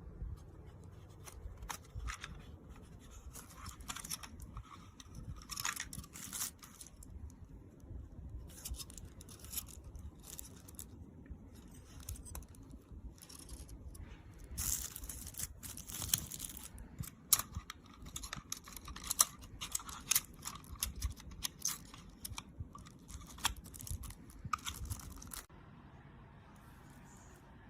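Irregular crinkling, rustling and tearing handling noises, as of packaging being handled and opened. They come in clusters and stop shortly before the end.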